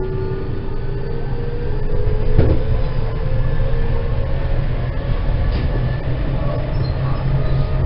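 JR West 207 series 2000-subseries electric train running under power, heard from inside its motor car. The IGBT VVVF inverter and traction motor whine slowly rises in pitch as the train gathers speed, over a steady rumble of wheels on rail. A single sharp knock from the track comes about two and a half seconds in.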